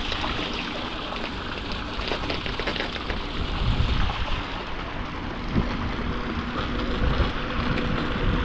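Seawater pumped from the marina splashing and running into seagrass fruit holding tanks, a steady rushing wash with small splashes and a faint steady hum.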